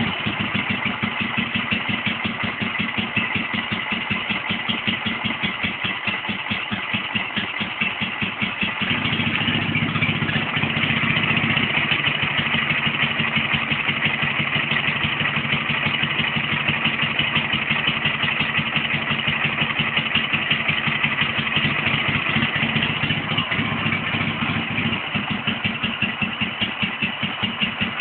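Ural motorcycle's air-cooled flat-twin engine idling with an even, steady beat, a little louder from about nine seconds in.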